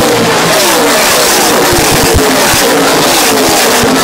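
Several NASCAR race trucks' V8 engines running flat out on the oval, a pack passing one after another, each engine note falling in pitch as it goes by and overlapping into a continuous loud engine noise.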